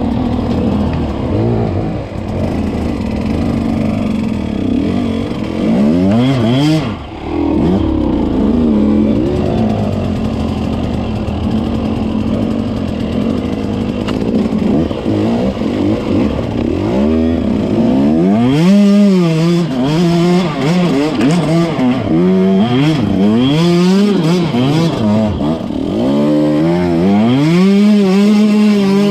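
KTM 150 two-stroke dirt bike engine being ridden, its pitch climbing and dropping with the throttle. From about 18 seconds in, it revs up and falls back again and again, each rise and fall lasting a second or two.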